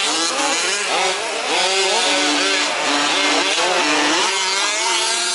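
Several 1/5-scale RC off-road trucks' small two-stroke petrol engines racing together, each rising and falling in pitch as they throttle up and ease off around the track.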